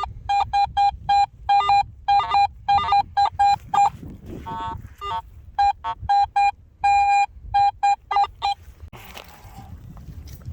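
Metal detector giving repeated short target beeps, one steady pitch, in quick groups as the coil is swept back and forth over a buried target, with a buzzier rasp about halfway through; the beeps stop about two seconds before the end.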